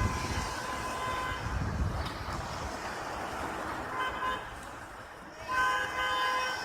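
A horn sounds three times: a long blast at the start, a short one about four seconds in, and another long blast near the end, over steady outdoor background noise.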